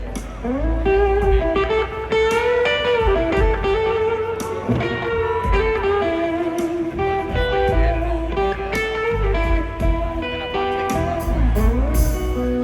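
Live blues-rock band playing an instrumental passage: an electric guitar lead with bent and sliding notes over bass and drums.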